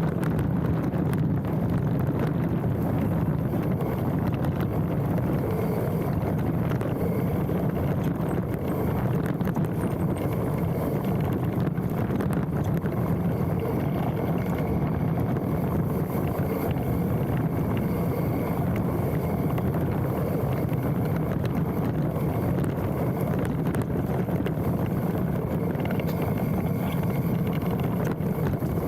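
Specialized Stumpjumper mountain bike rolling downhill on a dirt trail: a steady rumble of tyres and a rattling frame, mixed with wind buffeting the handlebar-mounted microphone. A faint brake squeal comes in near the end.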